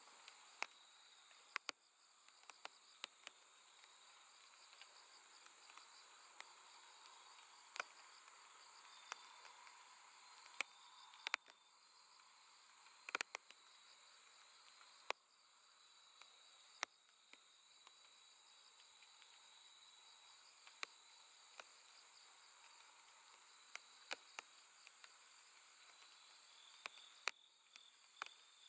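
Faint chorus of crickets and other grass insects at night: steady high-pitched trilling, with a pulsing chirp above it. Scattered sharp clicks come irregularly throughout and are the loudest sounds.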